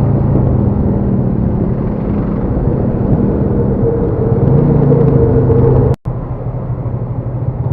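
Motorcycle engine running steadily under way, with road and wind noise; the sound cuts out briefly about six seconds in.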